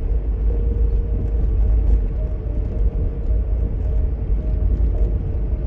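Steady rain falling, an even wash of noise over a deep low rumble.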